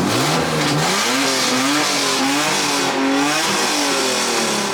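Lexus IS300's 3.0-litre inline-six revved: engine speed climbs over the first second or so, holds, drops back about three and a half seconds in, then starts rising again near the end. The engine has an exhaust leak.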